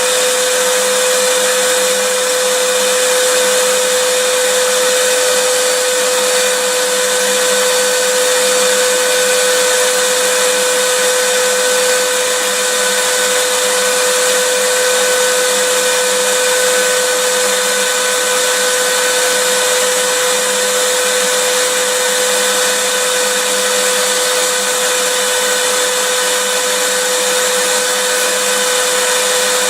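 Vacuum cleaner running steadily, a constant motor whine with a strong steady hum over a rushing hiss, unchanging throughout.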